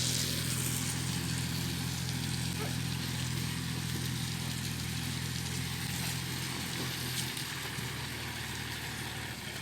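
A motor vehicle's engine running at a steady speed, its pitch stepping down a little about seven seconds in.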